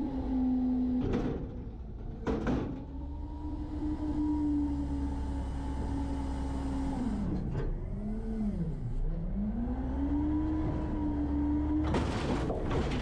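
Garbage truck's hydraulic packer running over the diesel engine: a steady whine that sags and climbs back again about two-thirds through, with a few sharp knocks and a clatter near the end.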